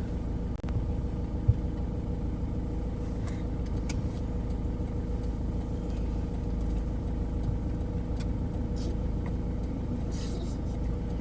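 Steady low vehicle rumble with a constant hum and a few faint clicks.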